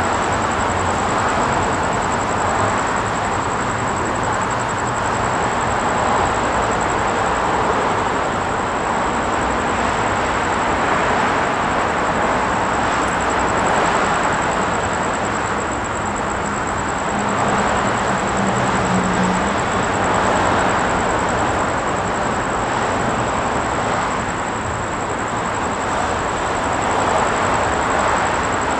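Steady running noise of a moving train, an even rumble with no pause or break.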